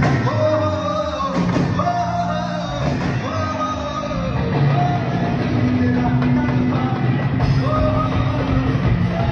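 A male singer performing live with a band through a loud sound system, holding long sung notes over the accompaniment.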